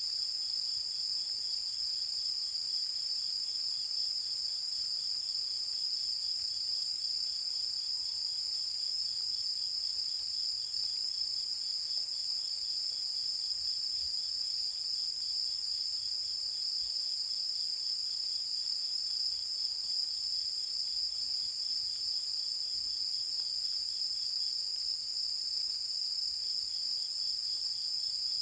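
A chorus of night-singing insects trilling without pause: a steady, high-pitched shrill, with a fainter run of quick, evenly repeated chirps beneath it.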